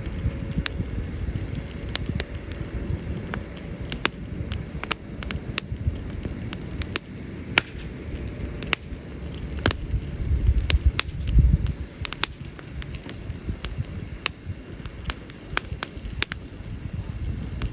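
Wood campfire crackling and popping: many sharp, irregular snaps over a low rumble that swells loudest about eleven seconds in.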